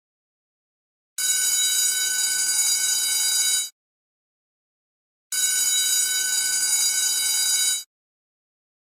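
School bell ringing in two bursts of about two and a half seconds each, a second or so in and again about halfway through, with dead silence between.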